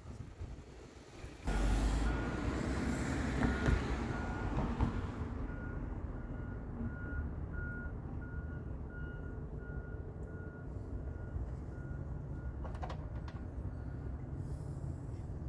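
A 2018 Chevy Suburban's 5.3 V8 starting up about a second and a half in, then idling steadily, while a vehicle warning chime beeps about twice a second.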